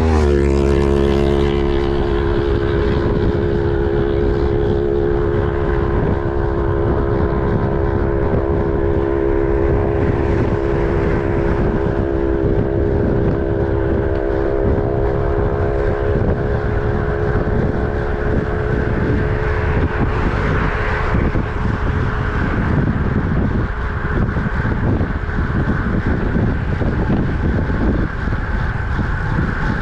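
Wind rushing over the microphone while riding at speed along a highway, with traffic noise. A motor vehicle passes right at the start, its engine note dropping in pitch, then a steady humming tone carries on and fades out about 20 seconds in.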